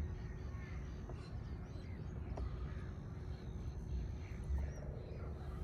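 Faint bird calls over a low, uneven rumble and a faint steady hum.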